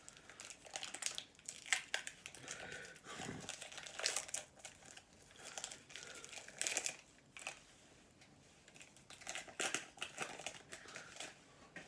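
Wrapper of an Upper Deck MVP hockey card pack crinkling in the hands as it is opened, in irregular bursts.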